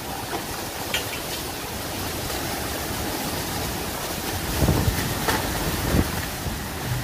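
Storm wind blowing hard over the microphone, with heavy low buffeting gusts about four and a half to six seconds in.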